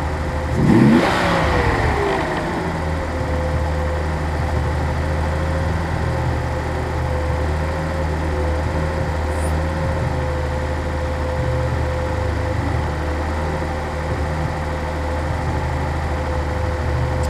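1983 Datsun 280ZX Turbo's turbocharged straight-six, the L28ET, revved once sharply about a second in. The revs fall back over the next second or two and it settles into a steady idle.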